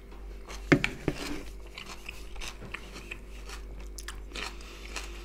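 Close-up chewing of a mouthful of fresh cucumber and tomato salad, with irregular crunches, the sharpest about a second in.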